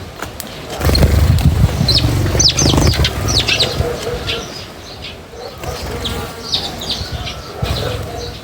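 Birds chirping in short, sharp calls that drop quickly in pitch, with a loud low fluttering from about one to three seconds in, like wings flapping.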